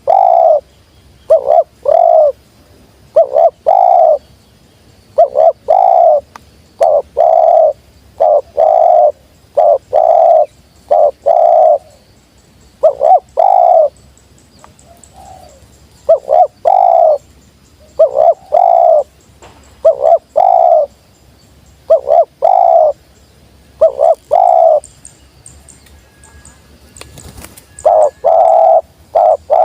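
Spotted dove (tekukur) cooing: short phrases of two or three low notes, repeated every couple of seconds, with a break of a few seconds near the end before the cooing starts again.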